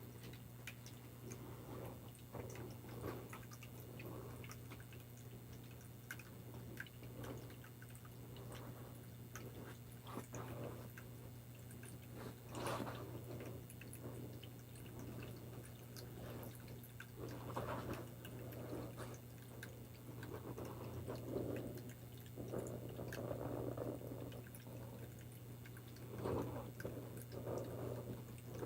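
Water splashing and dripping in soft, irregular bursts, with a steady low hum underneath.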